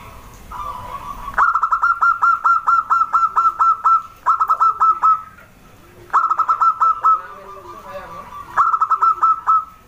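Zebra dove (perkutut) singing: three phrases of quick, repeated staccato coo notes, about four or five a second, the first phrase the longest.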